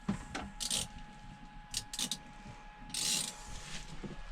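Short bursts of scraping and rubbing, four or five of them, as a stiff old rubber exhaust hose is dragged and worked loose from a boat's engine space.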